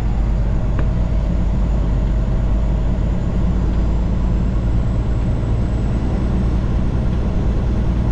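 Heavy truck's diesel engine and road noise, a steady low drone heard from inside the cab while driving.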